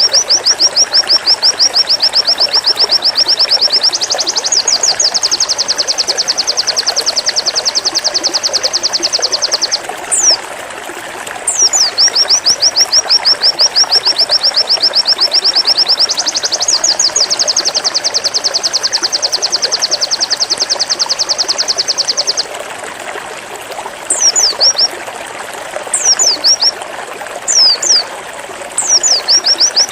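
White-eye (pleci) singing its 'zipper' song: long, fast runs of identical high, down-slurred notes, each run stepping up in pitch partway through. The song breaks into a few short separate notes, then another run starts near the end.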